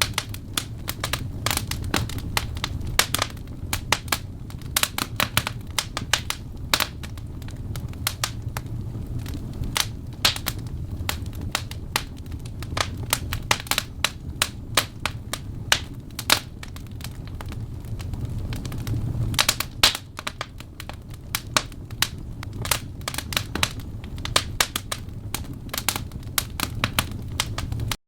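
Wood fire of burning logs crackling and popping, with irregular sharp snaps over a steady low rumble of the flames.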